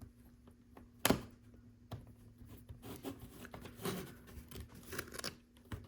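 Plastic LEGO pieces being handled and pressed together: a sharp click about a second in, then rustling and small clicks, and another click near the end.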